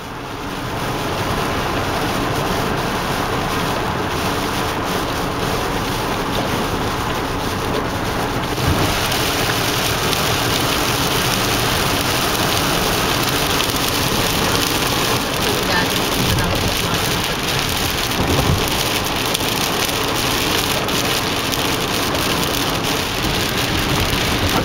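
Heavy rain falling on a moving car and tyres hissing on the wet freeway, heard from inside the cabin as a steady wash of noise. The hiss grows brighter and stronger about nine seconds in as the rain thickens.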